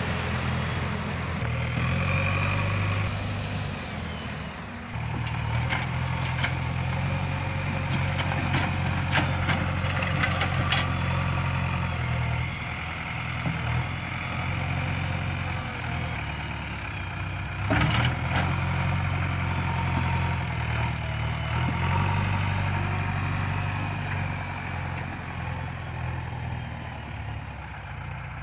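Heavy diesel engine running steadily at low revs, its pitch shifting slightly now and then, with a sharp metallic knock about two-thirds of the way through.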